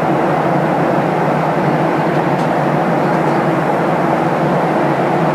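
Steady cabin noise inside a Boeing 737-800: a constant rush of engine and airflow noise with no change in pitch or level.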